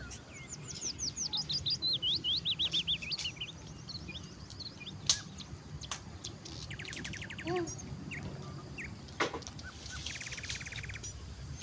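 Songbirds singing: a fast run of sweeping whistled notes in the first few seconds, then two short rapid trills later on. A couple of sharp knocks sound about five and nine seconds in.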